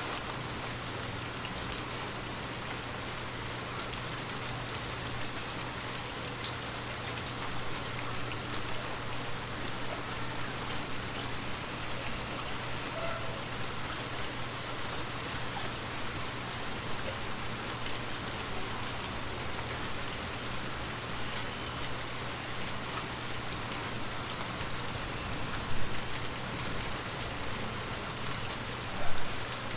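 Steady rain falling and pattering on a surface. Two brief louder sounds stand out near the end.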